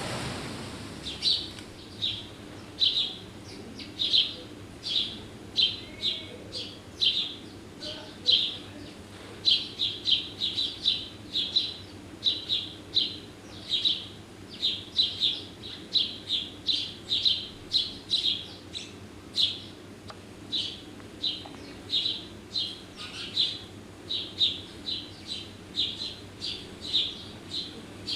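Small garden bird chirping over and over, short high chirps coming two or three a second without a break, with a faint steady low hum underneath.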